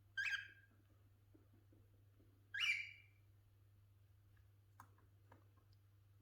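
Cockatiel giving two short, harsh calls about two and a half seconds apart, followed by a couple of faint clicks.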